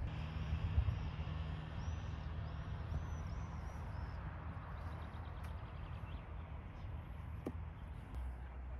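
Steady low outdoor rumble of wind and distant traffic, with a small bird singing a quick run of short chirps about two to four seconds in.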